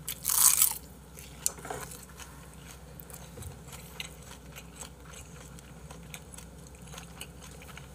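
A mouthful of rice wrapped in seaweed taken with one loud crisp bite about half a second in, then quiet chewing with small scattered mouth clicks.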